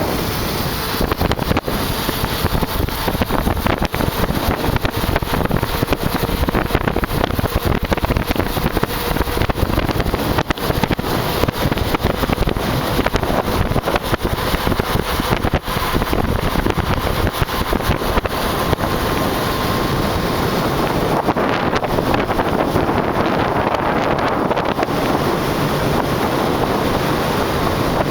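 Wind rushing and buffeting on the microphone of a motorcycle coasting downhill at about 50 mph with its engine switched off, so no engine note is heard, only a loud, steady roar of air and road noise.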